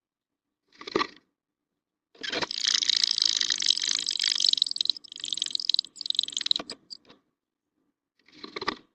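Carolina chickadee rustling and scraping nest material inside a nest box, a long scratchy stretch with short breaks, between two brief bumps about a second in and near the end.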